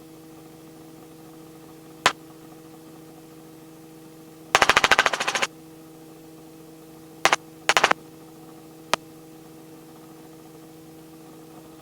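Robinson R44 helicopter cabin drone heard through the intercom, steady and low. About four and a half seconds in it is broken by a one-second burst of rapid buzzing clicks, and single sharp clicks follow later.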